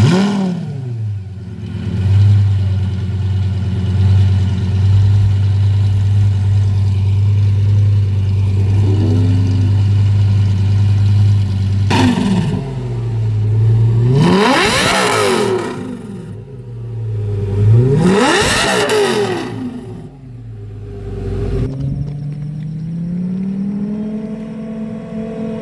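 A car engine idling fast just after starting, then revved hard twice in quick blips. Near the end the engine speed rises and falls more gently.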